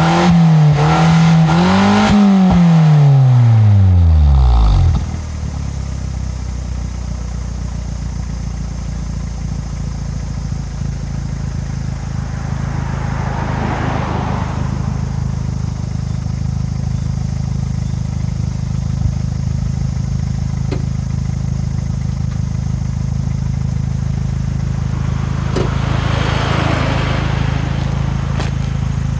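Daihatsu Mira TR-XX Avanzato R engine through a stainless Style-Bay Final F2 aftermarket exhaust: revved twice in quick succession, then the revs fall away and it settles about five seconds in to a steady idle.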